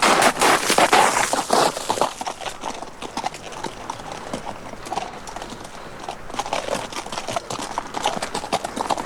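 Horses' hooves clip-clopping in many quick hoofbeats. They are loudest in the first two seconds, ease off in the middle and build again near the end.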